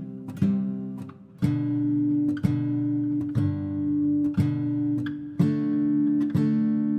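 Background music: acoustic guitar strumming chords, one about every second, each left to ring.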